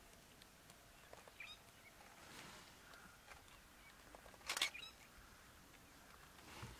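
Quiet ambience with a few faint bird chirps, and a brief cluster of clicks about four and a half seconds in.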